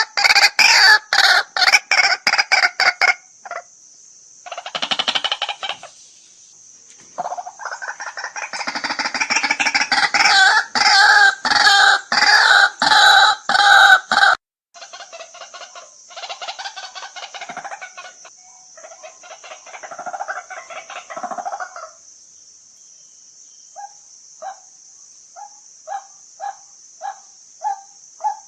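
White-breasted waterhen calling: loud, rapidly repeated croaking notes for the first half, then a softer series. Near the end it settles into a regular run of short single notes, about two a second.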